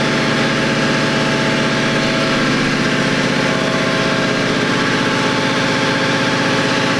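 Pontiac Fiero's engine idling steadily, with an even, unchanging beat.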